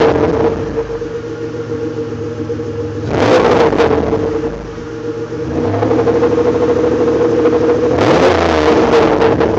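A 2003 Chevrolet Monte Carlo's 3.4 L V6 (3400) through a Flowmaster Super 44 muffler with the resonator deleted, being revved in neutral: it settles to idle, gives a short rev about three seconds in, then a longer held rev from about halfway, dropping back to idle near the end.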